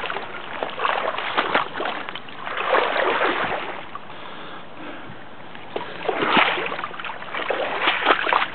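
Bicycle wheels splashing through deep swamp water in several surges, with a quieter stretch a little past the middle.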